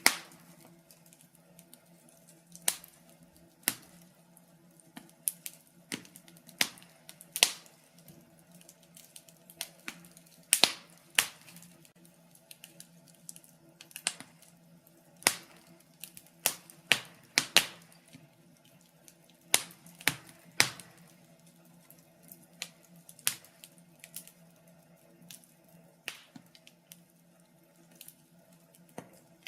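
Burning logs in a fireplace crackling, with irregular sharp pops and snaps about once a second over a faint steady low hum.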